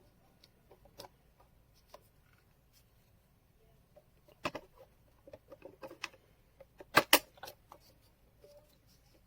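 Scattered light clicks and knocks at irregular intervals, the loudest a quick double click about seven seconds in.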